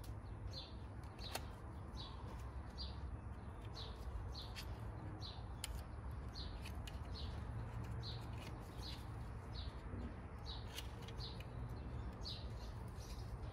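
A bird chirping over and over, about twice a second, with a steady low rumble underneath and a few light clicks.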